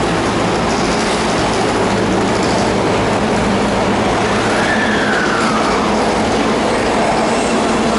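Osaka Metro 20-series subway train running into a station platform: a steady loud rumble of wheels on rail with a low hum. About five seconds in, a tone rises and then falls away.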